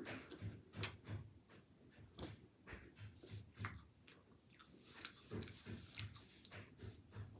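A person chewing a cookie close to the microphone: soft, irregular crunches and mouth clicks.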